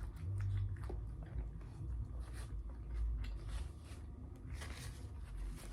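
A person chewing food with the mouth close to the microphone: scattered small wet clicks and soft squishes, with a slightly louder burst near the end.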